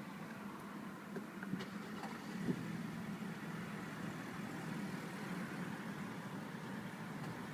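Ford Focus Sport engine idling steadily, with a few light clicks in the first few seconds.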